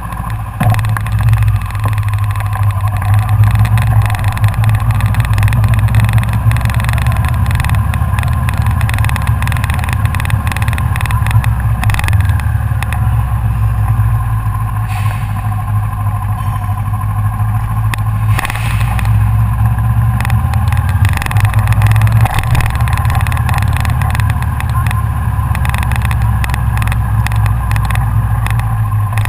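Kawasaki Ninja 650R motorcycle's parallel-twin engine running at low, fairly steady revs, with many short clicks and knocks over it.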